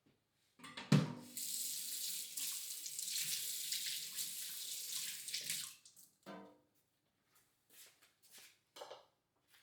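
Kitchen tap water running into a sink for about four and a half seconds, then shut off. It starts right after a sharp knock, the loudest sound, and a short clunk follows soon after the water stops.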